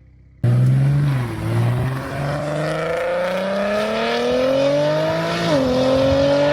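BMW 340i's B58 turbocharged inline-six, heard through a single-exit exhaust, cuts in abruptly and pulls hard under acceleration. Its note climbs steadily, drops sharply at an upshift about five and a half seconds in, then climbs again.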